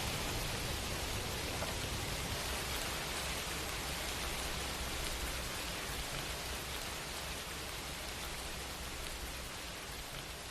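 Steady rain, an even hiss of falling drops, slowly growing quieter toward the end.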